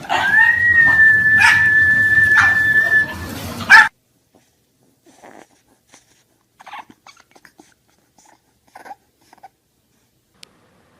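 A dog whining in one long, high, steady note lasting about three seconds, with a couple of knocks, cut off suddenly; then only faint scattered small sounds.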